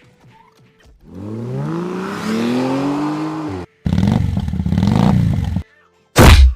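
A vehicle engine revving, its pitch rising and then falling back, followed by a second loud rushing stretch and a short, very loud burst near the end.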